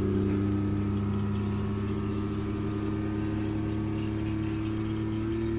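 A vehicle engine running steadily, a deep even hum whose pitch shifts slightly.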